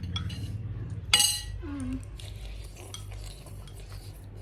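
A spoon or fork clinking and scraping against a bowl or plate while eating, with one sharp clink about a second in.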